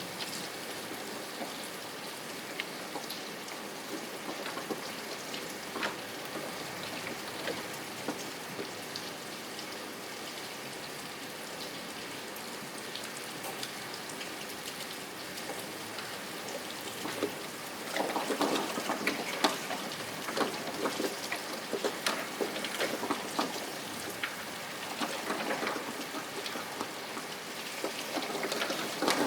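Rain falling, with many separate drops striking a surface close by; it grows heavier and louder about two-thirds of the way through.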